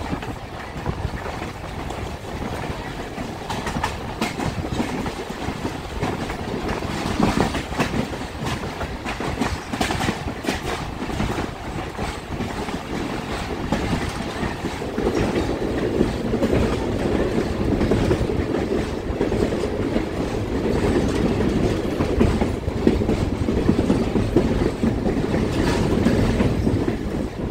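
Passenger train rolling along the track, heard from aboard: a steady rumble of the wheels with scattered clicks over the rail joints. About halfway through the rumble grows louder.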